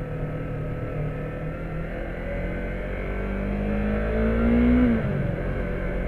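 Motorcycle engine pulling away from a traffic light: its pitch climbs and it grows louder for about three seconds, then drops sharply just before the end.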